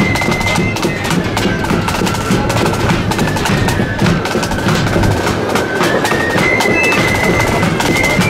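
Marching flute band playing a tune: flutes carry a high, stepping melody over rapid side-drum strokes and bass drum.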